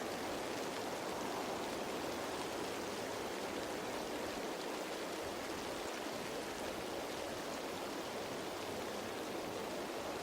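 Steady rain falling on leaves, an even hiss of many drops with no let-up.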